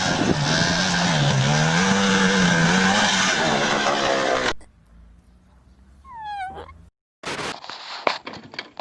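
A loud motor-vehicle engine running with heavy noise, its pitch wavering up and down, cuts off abruptly about four and a half seconds in. Then there is a short falling squeal, and a few knocks and clatters near the end.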